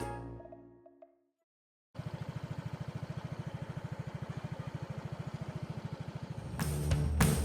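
A motor engine idling with a steady, rapid pulsing, about ten beats a second. It follows the tail of a music note and a second of silence, and music comes in over it near the end.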